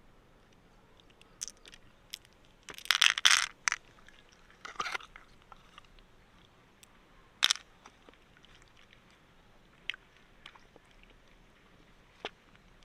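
Freshwater mussel shells clicking and scraping as they are handled and pried open. A loud crunching scrape about three seconds in and a shorter one near the middle, with single sharp clicks between.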